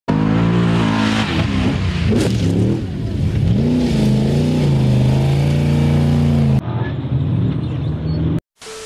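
Rally car's engine revving hard, its pitch swinging up and down repeatedly as the car slides and spins its wheels. Near the end comes a short steady beep with static hiss, a video transition effect.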